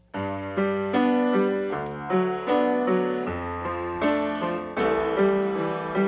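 Background music: a piano or electric-piano melody of struck notes, about two or three a second, each ringing and fading.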